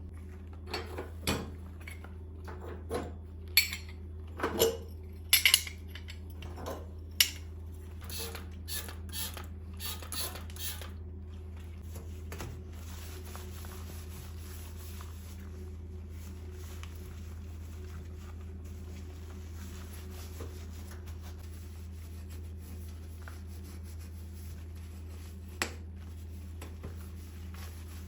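Dishes and cutlery being handled, a run of sharp clinks and knocks for the first ten seconds or so, then mostly a steady low hum with a single clink near the end.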